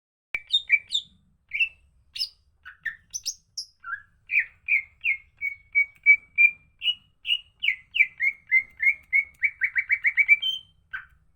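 Cucak ijo (green leafbird) singing in full voice, a varied run of clear, whistled notes that quickens into a fast series of repeated notes near the end.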